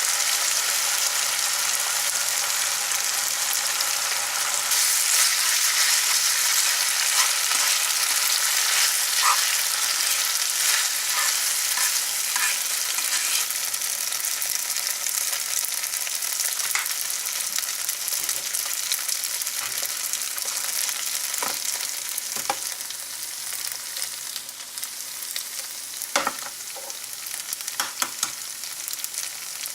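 Pad thai sizzling as it is stir-fried in a pan, with scattered clicks and scrapes of a utensil against the pan. The sizzle gradually dies down.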